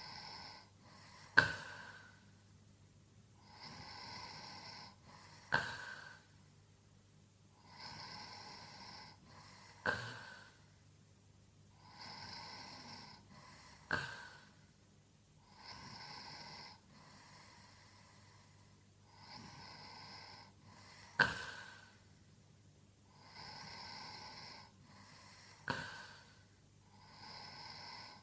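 A sleeping person snoring in a slow, regular rhythm, about one breath every four seconds. Each breath is a hissy rasp of about a second, followed by a sharp click-like catch. A faint steady low hum runs underneath.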